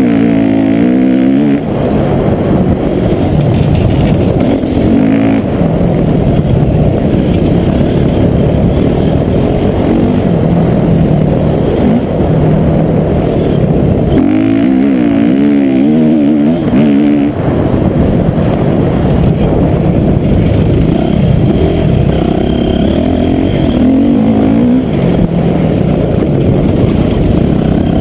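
Dirt bike engine under hard riding, loud throughout, revving up and dropping back again and again as the throttle opens and closes.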